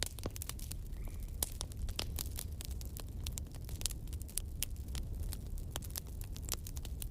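Wood fire crackling: dense, irregular sharp pops and snaps over a steady low rumble of the flames.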